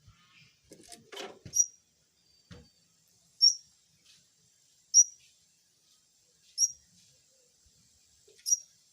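A bird chirping: a single short, high chirp repeated about every one and a half seconds, five times. A brief rustle comes about a second in.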